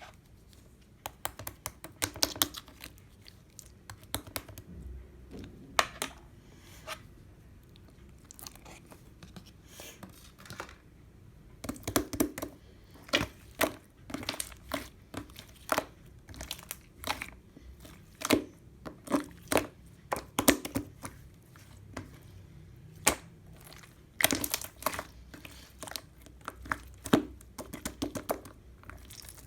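Blue pearl slime being squished and stretched by hand, giving irregular sticky clicks and small pops, thicker in the second half.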